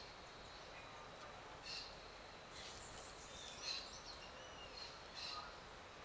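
Small songbirds giving several short, high chirps, spaced about a second apart, over a faint steady hiss.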